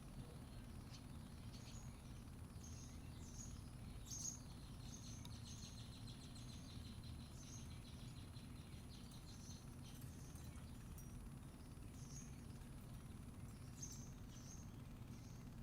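Faint backyard ambience: a steady low background rumble, with small birds chirping in short high notes about once a second and a brief buzzy trill partway through.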